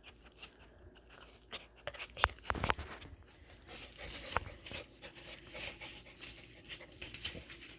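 Dogs moving about at close range: quiet rustling with scattered soft clicks and knocks, a few sharper ones between about two and four and a half seconds in.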